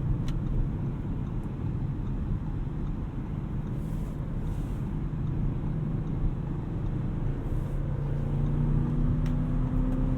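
Audi RS6 Avant's twin-turbo V8 running at steady cruise with tyre and road noise, heard from inside the cabin; about two seconds before the end the engine note rises gently as the car picks up speed. Two faint clicks, one near the start and one near the end.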